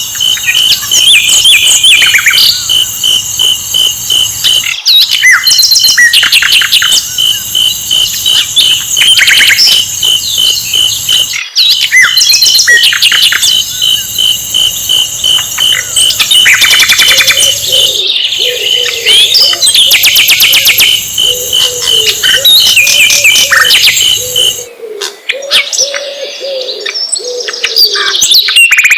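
Recorded flycatcher (sikatan londo) song: loud, rapid high chirps and fast trills over a steady pulsing high note. From about halfway a low cooing call repeats underneath. The song breaks off briefly every six or seven seconds, as in a looped lure track.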